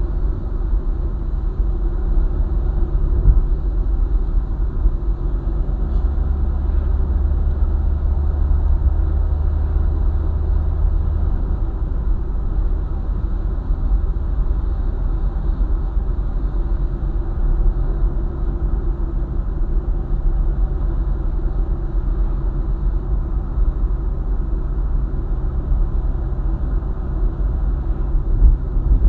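Car driving on a highway: a steady low rumble of road and engine noise with a constant engine hum.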